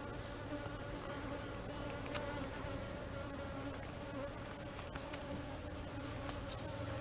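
Steady hum of many honey bees buzzing around an open hive, with a few faint clicks.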